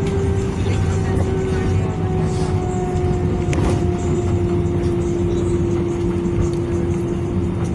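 Airbus A320 cabin noise: a loud low rumble with a steady engine tone that slowly falls in pitch.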